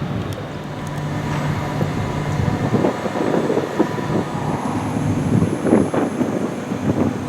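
Electric train running through the station: a steady electric hum of its drive equipment over a rumble, with louder clattering surges in the middle and near the end.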